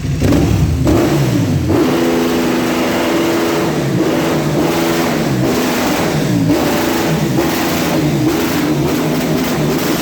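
KTM motorcycle engine revved repeatedly through a straight-through exhaust. The revs rise and fall in a series of throttle blips, held high for a couple of seconds near the middle, then blipped about once a second.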